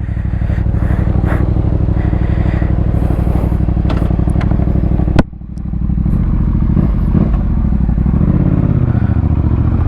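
2021 Yamaha MT-07's parallel-twin engine running through an Akrapovic full carbon exhaust with the dB killer still fitted, with an even pulsing beat. About five seconds in there is a sharp click and the level drops, then the engine note rises and falls as it revs.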